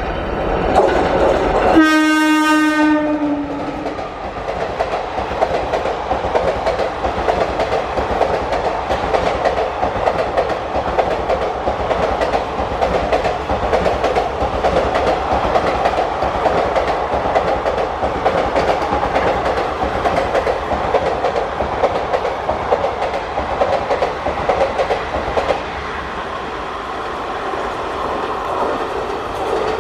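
Indian Railways WAP-4 electric locomotive sounding its horn in one blast of about a second, near two seconds in, then the express's passenger coaches rushing past with steady wheel clatter on the rails. The clatter drops off a little near the end as the train draws away.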